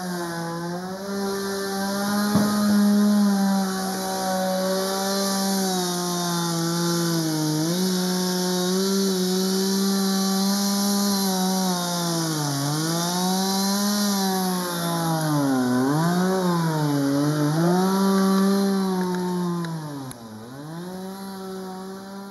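Chainsaw running at high speed while cutting up a fallen tree, its engine pitch dipping and recovering several times as it bogs down in the cut, mostly in the second half.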